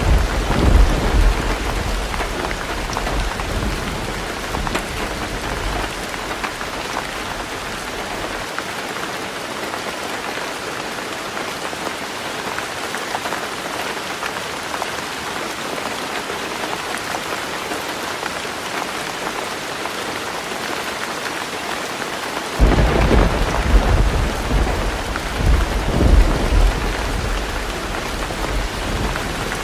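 Heavy rain pattering steadily on a roof, with thunder rumbling. One rumble dies away in the first several seconds, and a new roll of thunder breaks in suddenly about two-thirds of the way through.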